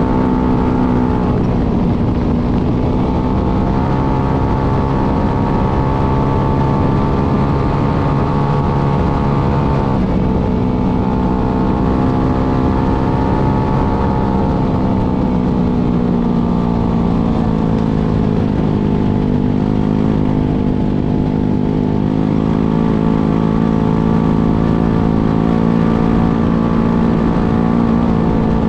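Polaris RZR 200 EFI youth UTV's single-cylinder engine running hard and steadily on a practice lap, its pitch easing and rising again about ten seconds in and once more around twenty seconds.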